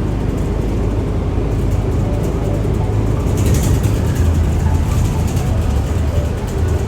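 Inside a moving transit bus: a steady low rumble of engine and road noise, with light rattling clicks about halfway through.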